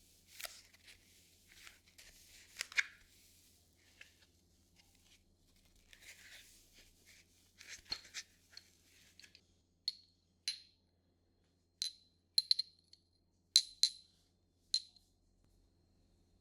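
Soft rustling from handled material, then a run of about nine sharp taps on a hard object, each with a brief bright ring, spaced a second or less apart in the second half.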